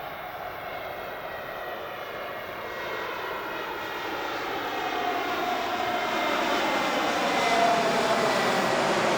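Airbus A320neo's Pratt & Whitney geared turbofan engines on approach to land, a jet drone that grows steadily louder as the aircraft nears, with several tones sliding slowly down in pitch.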